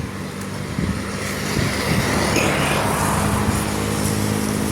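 A motor vehicle engine running steadily at idle under a steady hiss of rain.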